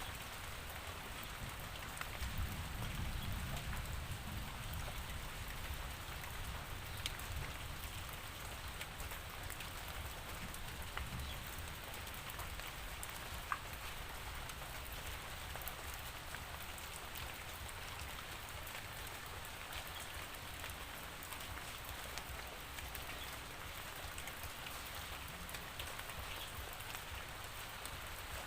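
Steady rainfall with scattered distinct drops striking a surface, and a low rumble that swells a couple of seconds in and then settles.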